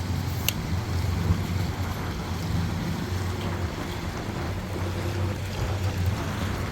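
An engine idling steadily, with wind gusting across the microphone. There is one short sharp tick about half a second in.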